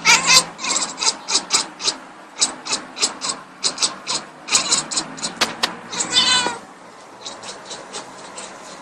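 Cat chirping and chattering in a quick series of short, high calls, about three a second, ending about six seconds in with a longer wavering call.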